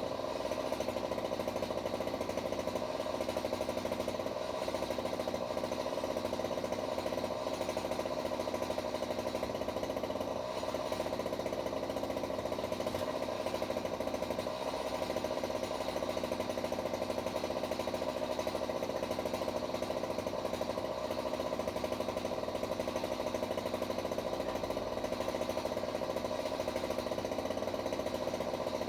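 A power saw cutting tree limbs, running steadily at one constant pitch without let-up.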